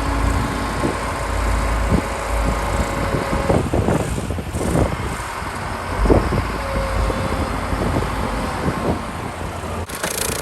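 Motor vehicles running on a city street, a steady low rumble with scattered knocks and clunks. The sound changes abruptly near the end.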